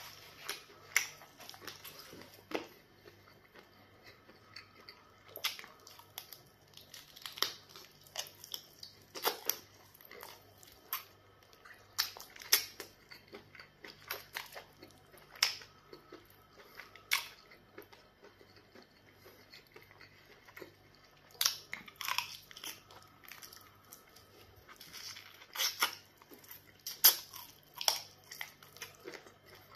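Close-up mouth sounds of a person eating chicken by hand: irregular chewing, biting and sucking on the meat, with sharp wet clicks and smacks every second or so.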